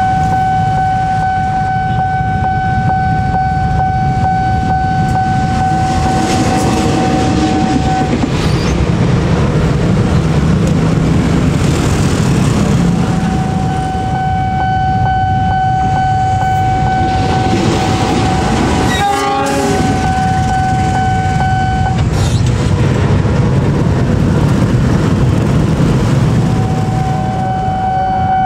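Train running on the rails with a steady rumble. Over it a loud, steady warning tone sounds for about eight seconds, breaks off for several seconds, sounds again for about eight seconds, and returns near the end.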